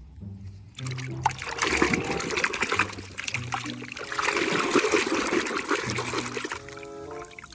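Running water splashing onto a toy as it is rinsed clean of mud. The water starts about a second in, is loudest in two spells, and stops shortly before the end.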